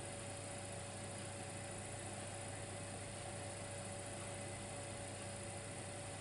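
Dimplex electric fireplace running: a steady electrical hum with a constant hiss, unchanging throughout.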